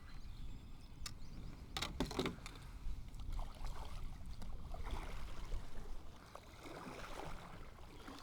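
Water splashing and lapping around a kayak, with a few sharp knocks against the boat about one to two seconds in.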